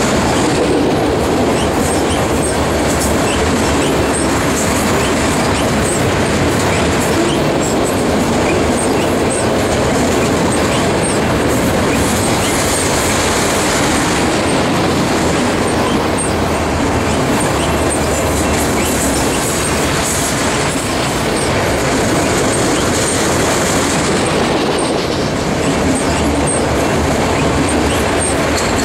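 A train of empty autorack freight cars rolling past on steel wheels: a steady, loud rumble with the clickety-clack of wheels over the rail joints.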